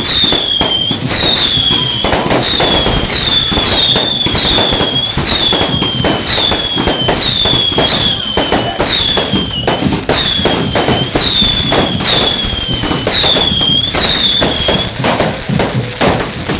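Roman candle fireworks firing a rapid run of whistling shots: each shot is a high whistle that falls in pitch, coming about one and a half a second, over constant popping and crackling. The whistles stop about fifteen seconds in.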